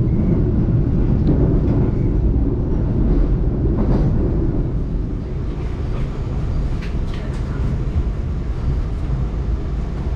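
Running noise of a Joglosemarkerto passenger train heard from inside the carriage: a steady low rumble of wheels on rails, a little quieter from about halfway through.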